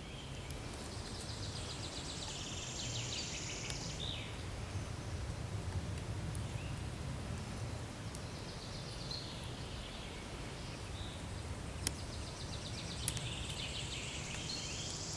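A songbird singing in a forest: two long phrases of rapid, high trilled notes, one at the start and one near the end, with fainter calls between. Underneath is a steady low rumble, and two sharp ticks come late on.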